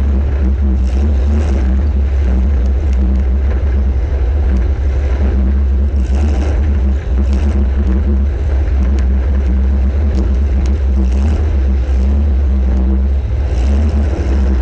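Compact demolition derby car's engine running loud and steady, heard from on board the car as a low, even rumble, with a few faint knocks.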